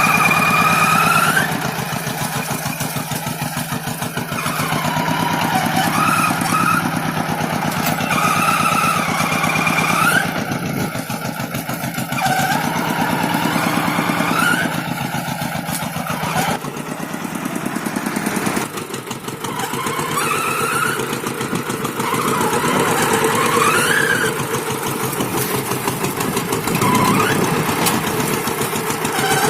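Rice-field tractor engine running while pulling a plough, its pitch and load shifting. A whine rises in pitch again and again, every few seconds.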